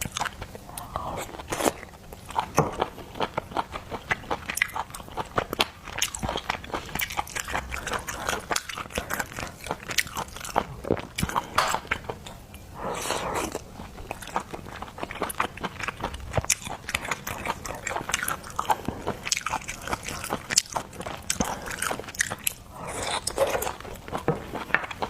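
Close-miked eating of seafood: steady biting, crunching and chewing with wet mouth clicks, going on throughout.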